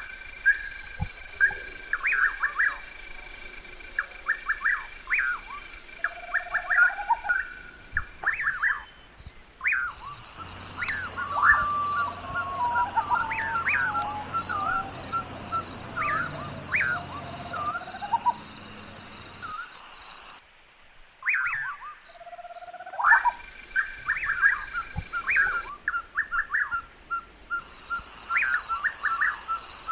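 Many birds chirping and calling over a steady high-pitched hum, the sound cutting out abruptly a few times.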